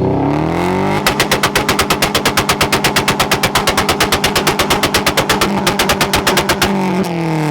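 Car engine revs up, then holds on a two-step launch-control rev limiter, cracking and popping rapidly at about eight pops a second for several seconds. The revs drop away near the end.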